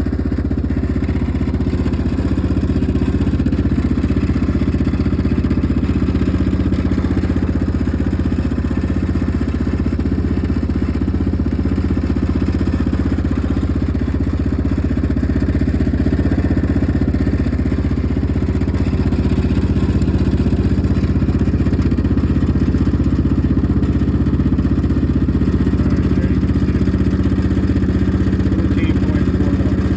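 1998 Yamaha Grizzly 600 ATV's single-cylinder four-stroke engine idling steadily, its charging system putting out about 14.5 volts.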